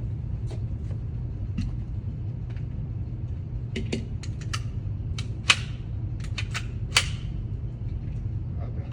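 Shooting-range ambience: a steady low hum with a scattering of sharp clicks and knocks, thickest in the second half, and two louder cracks about five and a half and seven seconds in.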